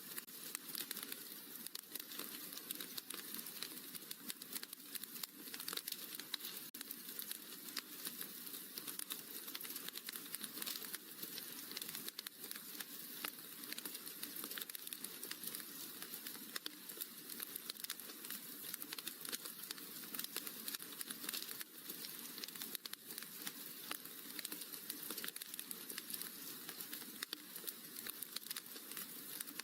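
Wood fire crackling in a fireplace: a steady, dense stream of small pops and snaps.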